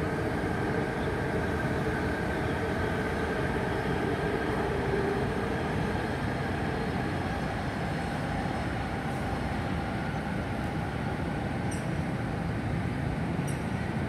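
Kelana Jaya Line LRT train running on the elevated track, a faint whine that fades out about halfway, over the steady hum of city traffic.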